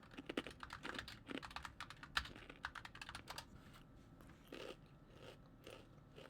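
Quick, irregular typing on a computer keyboard, with scattered key clicks.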